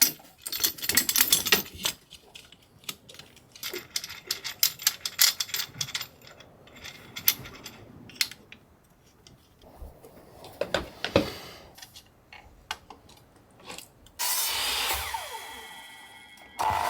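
Woodworking tools being handled: scattered clicks, taps and knocks. Near the end a loud power tool starts suddenly and runs in two short stretches.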